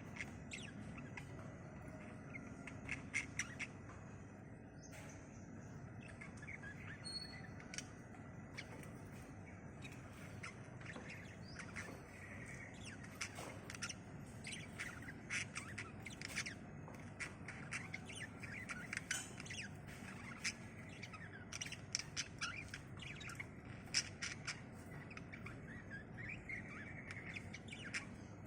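Birds calling, with many short, quick chirps throughout, over a low steady background rumble.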